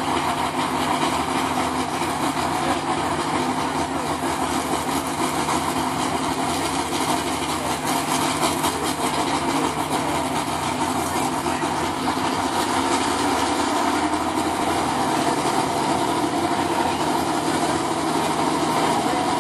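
Super stock 4x4 pulling truck's engine running at a steady, idle-like pace, with the pitch settling a little lower about twelve seconds in.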